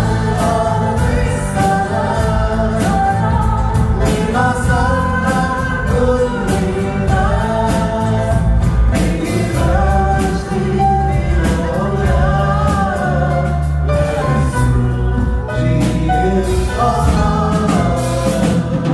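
A choir singing a Christian song together in harmony, over sustained low bass notes and a regular beat of short percussive hits.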